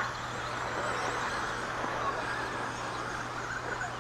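Radio-controlled stadium trucks racing around the track, heard as a steady whirring noise of the trucks' motors.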